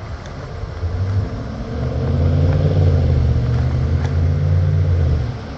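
Low, loud rumble of a motor vehicle engine close by, swelling about a second in and stopping fairly abruptly near the end.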